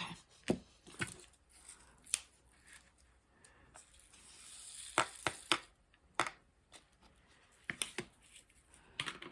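Small sharp clicks and taps of diamond-painting work: plastic resin drills and tools handled on a tray and canvas, with a longer rustling rattle around four to five seconds in.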